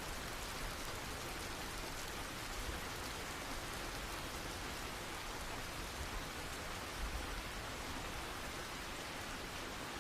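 Steady summer rain falling, an even hiss with faint drop ticks and a little low rumble underneath.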